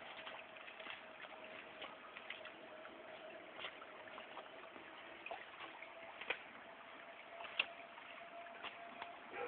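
Rain falling and dripping, with scattered small drip ticks and a few sharper taps over a faint steady hiss.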